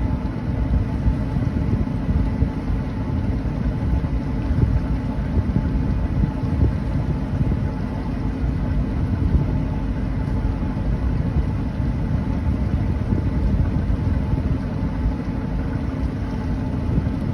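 A 26-foot Rendezvous boat's engine running steadily as it cruises at low speed, a continuous low rumble.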